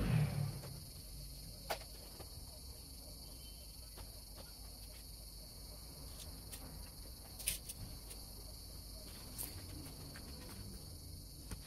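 Steady high-pitched insect chorus. It is broken by a few sharp clicks, the clearest about two seconds in and near seven and a half seconds. A low rumble at the very start fades within the first half second.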